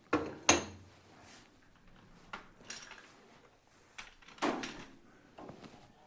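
Irregular metallic knocks and clunks with short scrapes, about seven in a few seconds, as tools and metal parts are handled at a metal lathe; no motor is heard running.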